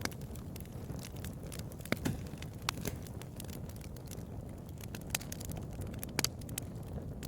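Bonfire crackling: irregular sharp pops and snaps of burning wood over a low steady rumble, a few louder pops about two and six seconds in.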